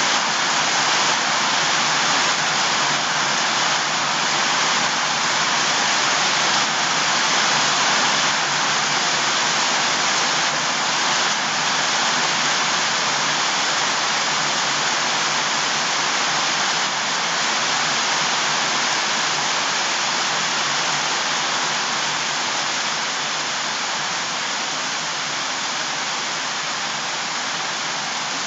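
Steady rushing water, an even hiss without breaks, growing slightly quieter over the stretch.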